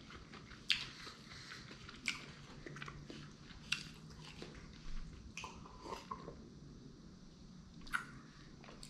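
A person chewing sushi close to the microphone: soft, wet chewing broken by sharp mouth clicks and smacks about once a second.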